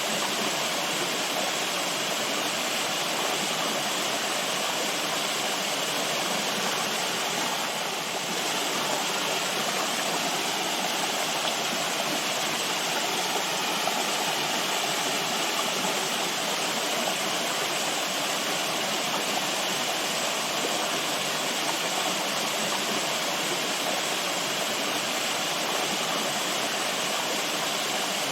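Running water rushing steadily, like a stream or small waterfall, with no change in level.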